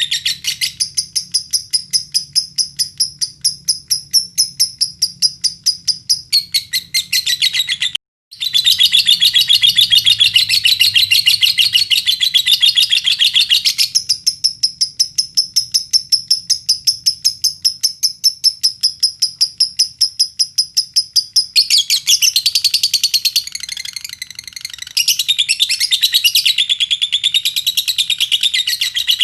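Lovebird singing a long, fast, high-pitched chattering trill of rapidly repeated chirps that runs on almost without a break. It cuts out for a moment about eight seconds in, then resumes, changing between denser and thinner stretches.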